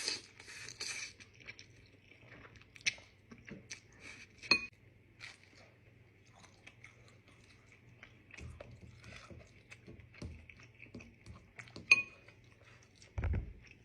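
Someone chewing spicy instant noodles close to the microphone, with scattered clicks of utensils on a dish and two sharper ringing clinks, about four seconds in and about twelve seconds in, and a dull thud near the end.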